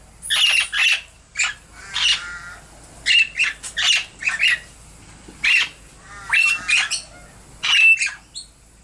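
Princess parrots squawking: about a dozen short, harsh calls in irregular clusters.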